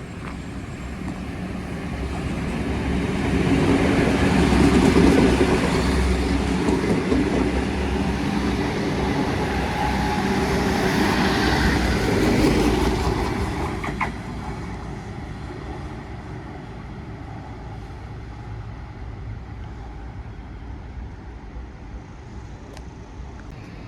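A train running through the station past the platform. Its rumble builds over a few seconds, stays loud for about ten seconds, then drops off sharply about fourteen seconds in, leaving a lower steady noise.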